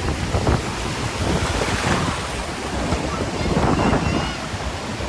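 Ocean surf washing onto a sandy beach, with wind buffeting the microphone as a low rumble. The surf swells about two seconds in, and faint voices of people on the beach come through.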